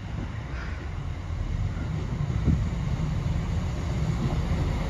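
Chiltern Railways diesel multiple unit approaching along the line, a low rumble of engine and wheels growing steadily louder.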